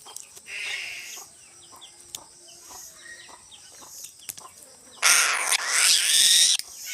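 A chicken gives one loud, harsh call about five seconds in, lasting about a second and a half in two parts. Faint bird chirps and clicks are heard before it.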